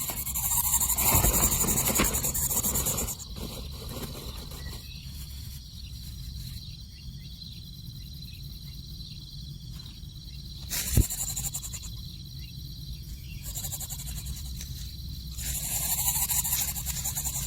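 Outdoor ambience: a high insect buzz that starts and stops in long stretches over a steady low rumble, with one sharp knock about eleven seconds in.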